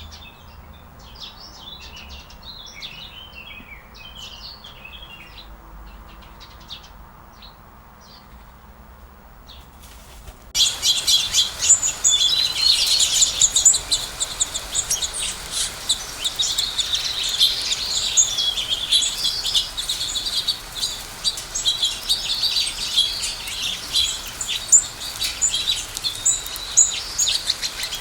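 Birds chirping and singing, a few scattered calls at first; about ten seconds in it switches abruptly to a louder, dense chorus of many birds chirping at once.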